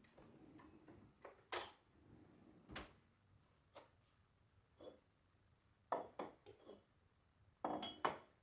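Dishes and cutlery being handled: a series of irregular light clinks and knocks, a few ringing briefly.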